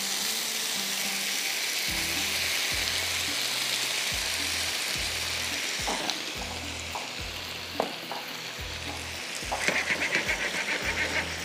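Chicken skewers sizzling hard on a hot grill pan as barbecue sauce is poured over them. The hiss eases after about six seconds. A few knocks and a quick run of clicks come near the end.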